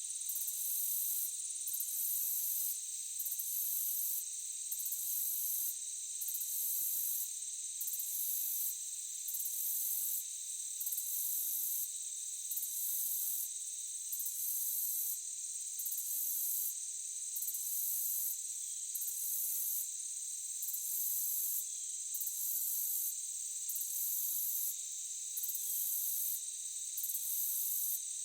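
Insect chorus: a steady, high-pitched shrill drone, with a still higher chirping layer that pulses on and off about every second and a half.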